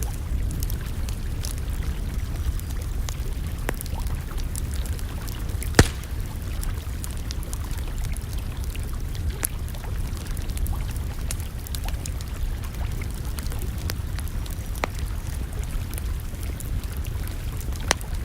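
Campfire crackling with scattered sharp pops, the loudest about six seconds in and another near the end, over a steady low rumble.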